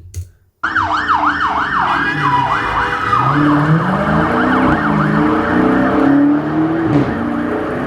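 Police car siren on a fast up-and-down yelp, starting about half a second in, while the car's engine accelerates hard and climbs in pitch through several gear changes.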